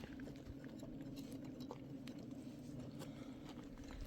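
Steady hum of wild honeybees around their nest, with soft crackles and clicks as honeycomb is pried out by hand.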